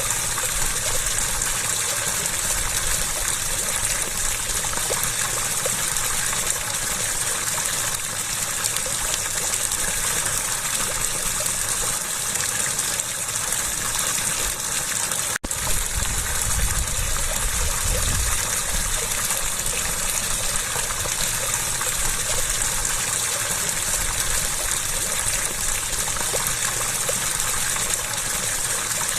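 Water rushing and gushing steadily, with a hiss strongest in the high range. About halfway it cuts out for an instant, then carries on with a little more low rumble.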